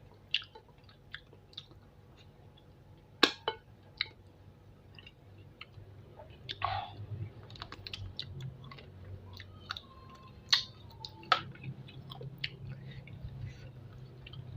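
Close-miked chewing of spicy chicken feet, with scattered wet clicks and smacks from the mouth. A few sharper clicks stand out, about three seconds in and again around ten and eleven seconds.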